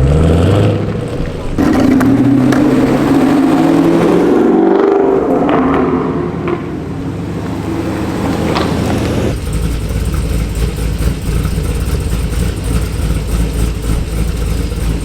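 Car engine revving and accelerating, its pitch rising and then falling, and from about nine seconds in a steady low engine rumble.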